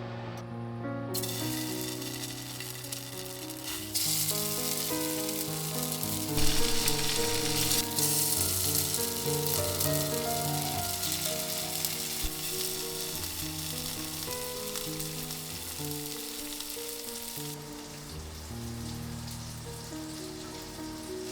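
Food sizzling in a hot frying pan, starting about a second in, louder from about four seconds and easing off near the end, over background music.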